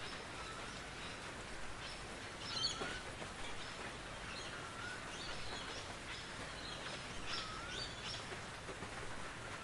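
Forest ambience: a steady hiss of rain under birdsong, with one bird repeating a short, wavering whistled call about every two and a half seconds and other birds chirping higher in between.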